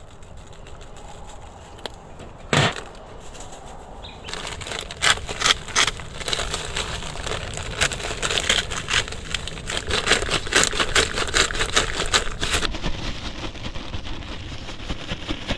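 Wood campfire crackling and popping: a single sharp pop, then a dense run of quick crackles for several seconds.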